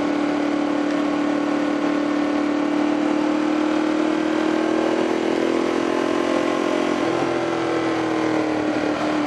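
Sportbike engine running while riding, with wind rush over the microphone. The engine note holds steady, rises gently as the bike accelerates, drops suddenly about seven seconds in, then eases down.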